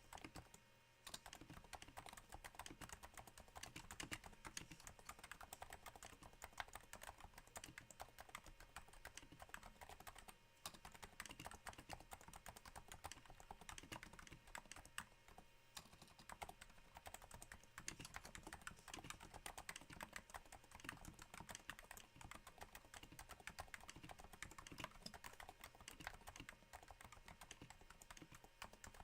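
Steady typing on a Cooler Master Novatouch keyboard, its Topre switches damped by Hypersphere silencing rings: a quiet, dense patter of soft keystrokes. The typing pauses briefly about a second in and again around ten seconds in.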